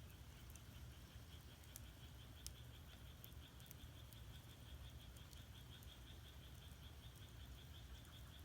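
Faint frog calling, a steady pulsing trill of about six pulses a second that starts about a second in, with a few sharp faint crackles from firewood burning in the agungi.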